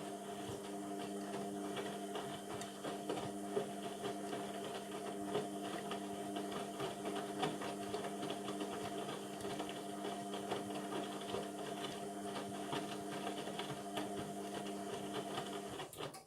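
Indesit MTWC71252WUK washing machine's motor turning the drum during the wash, a steady hum with the light patter of the tumbling load. It cuts off suddenly near the end as the drum stops.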